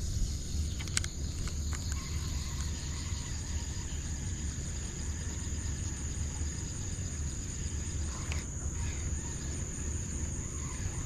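Steady high-pitched insect chorus over a low outdoor rumble, with a couple of faint clicks.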